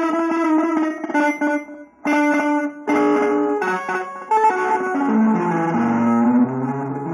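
Guitar music: a melodic line of held notes, with a short break about two seconds in and the line moving lower near the end.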